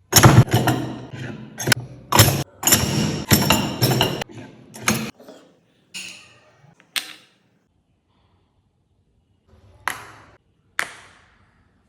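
A run of sharp clicks, knocks and clinks of small hard parts being handled and set down, some with a short ring, coming thick and fast for the first five seconds, then only a few, with a gap of about two seconds before the last two knocks.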